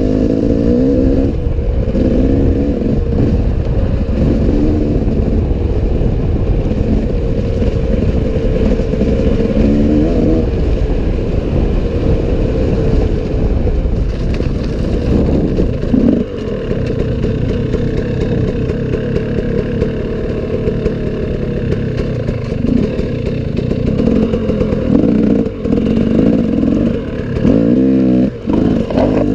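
Enduro dirt-bike engine running under load on a forest trail, its revs rising and falling as the throttle is worked, with clatter from the bike over rough ground.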